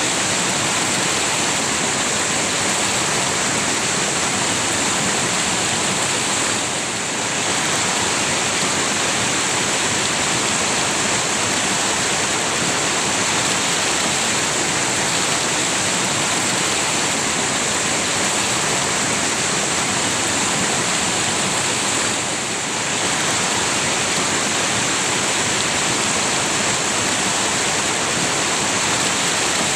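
River water rushing steadily, with the level dipping briefly twice.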